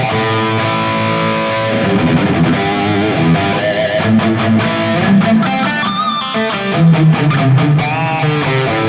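Distorted electric guitar played through a digital amp-modeling unit: low chugging riffs and held chords, with bent, vibrato lead notes around the middle and near the end.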